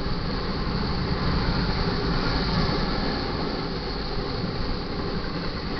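Cars of a BNSF intermodal freight train rolling past at speed: a steady rumble and rush of steel wheels on rail.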